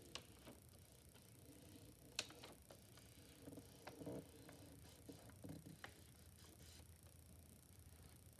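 Near silence: quiet room tone broken by a few faint, sharp clicks and taps of handling, the loudest about two seconds in.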